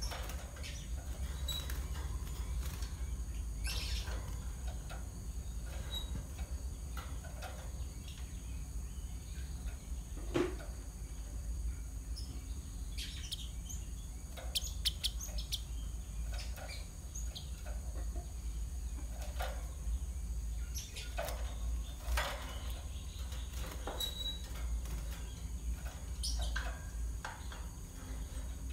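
Java sparrows giving short, sharp chip calls at irregular intervals, a lure recording used to draw in wild birds, over a steady low hum.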